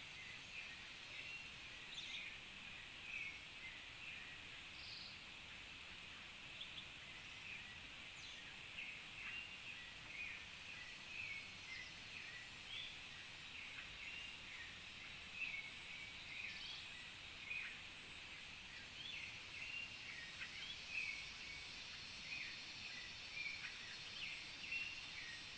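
Birds chirping: frequent short, high calls scattered throughout, over a steady hiss of running stream water.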